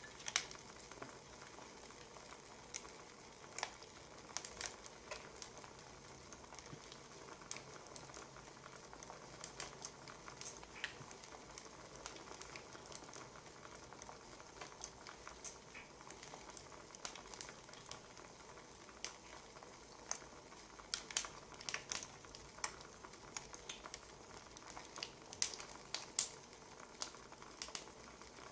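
Wood fire crackling: irregular sharp pops and snaps over a faint steady hiss, with a run of louder pops in the second half.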